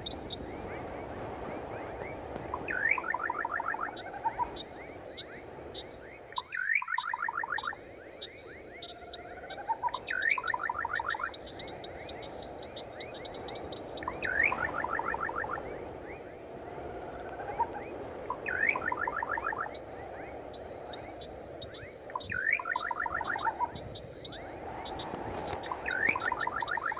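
A night bird calls seven times, about every four seconds; each call is a rising note followed by a quick run of notes. Behind it, insects keep up a continuous high chirping over a steady background hiss.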